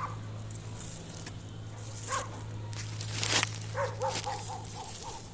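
A quick run of about six short, high animal calls, after a louder rustling scrape, over a steady low hum.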